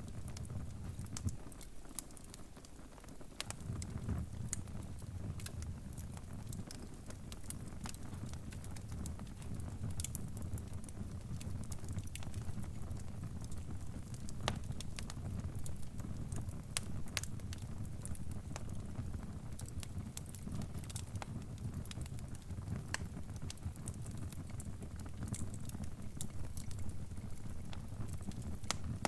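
Crackling fire: irregular sharp pops and snaps over a steady low rumble of burning logs.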